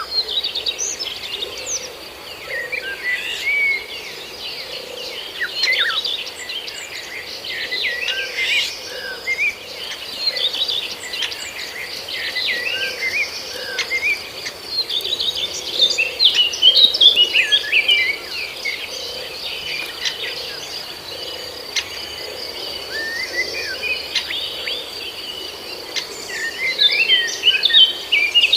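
Several small birds chirping and singing in quick, overlapping bursts of short notes, over a steady high-pitched whine.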